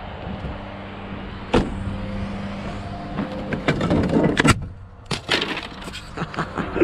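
Scrap metal clanking and banging as it is unloaded, with a sharp bang about one and a half seconds in and bursts of clattering after the middle, over the steady drone of a running engine.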